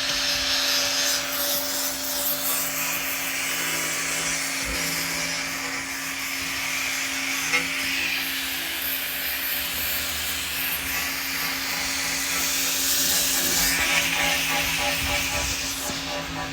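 Steady rubbing, scraping noise over a constant low hum.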